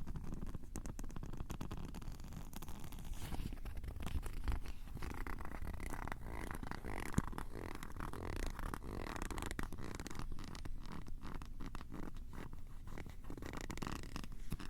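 Close, intense scratching and rubbing on the microphones of a Tascam recorder: a dense run of rapid scratchy strokes over a low, rumbling handling noise.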